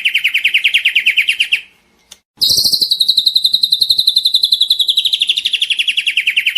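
White-rumped shama singing a rapid 'trotol' trill of fast, evenly repeated notes that slide slowly down in pitch. It breaks off about a second and a half in, and after a brief gap starts again higher and slides down again.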